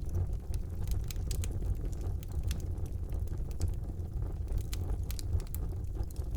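Wood fire burning in a fireplace: a steady low rumble of the flames with frequent irregular crackles and pops of burning logs.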